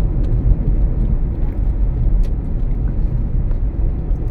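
Steady low rumble of road and tyre noise inside the cabin of a moving 2007 Toyota Prius, with a few faint ticks.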